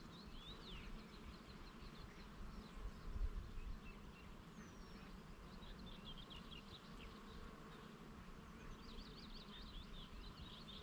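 Bees buzzing steadily among flowers, with small birds chirping in quick high twitters, busiest at the start and again near the end. A brief low rumble of wind on the microphone about three seconds in.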